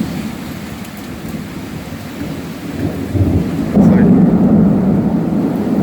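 Heavy rain pouring steadily in a thunderstorm, with a deep low rumble that swells and grows louder about four seconds in.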